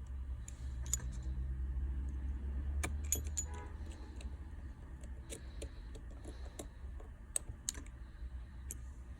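Small metal repair tools and phone parts clicking and tapping: scattered light, sharp clicks with a quick cluster about three seconds in, over a steady low hum.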